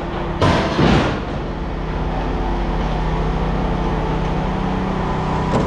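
A steady running engine or machine hum, with two sharp clanks about half a second apart near the start.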